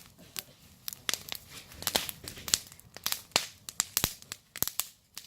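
Campfire crackling: burning wood giving off many irregular sharp pops and snaps.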